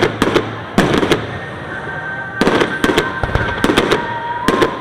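Fireworks going off in quick clusters of sharp bangs and crackles. Several volleys come about a second or two apart, with a rumbling wash between them.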